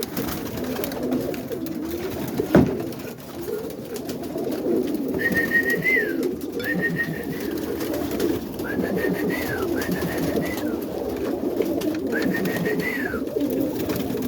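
Many roller pigeons cooing together in a loft, a continuous low warbling chorus. A single sharp knock sounds about two and a half seconds in, and five thin high whistle-like notes, each dropping at the end, come through in the second half.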